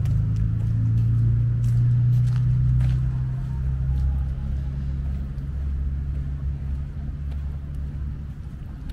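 A motor vehicle's engine running with a low steady hum, fading gradually from about three seconds in as it moves away.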